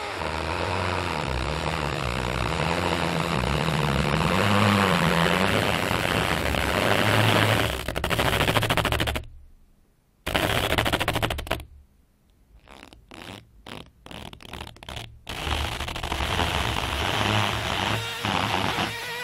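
A rubber slat rubbed and flexed, squeaking and creaking in long buzzy, rasping drags with a wavering low pitch. About nine seconds in it stops briefly, then comes back with a run of quick stuttering chatters before settling into another long drag.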